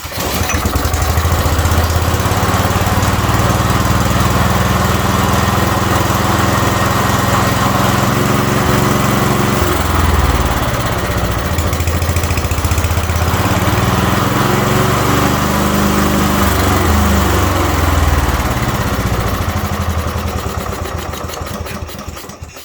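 Walk-behind lawnmower's small four-stroke petrol engine starting and running, its speed wavering up and down, with the air leak at the carburettor held sealed by hand so it runs better. The sound fades away over the last couple of seconds.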